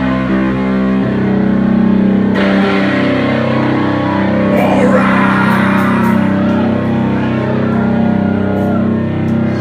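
Live rock band playing loudly, with heavy electric guitar holding sustained chords.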